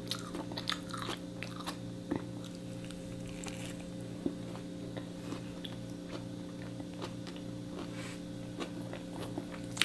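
Close-up mouth sounds of someone biting and chewing a bread sandwich with lettuce: small crunchy, wet clicks, busiest in the first couple of seconds. A steady low hum runs underneath.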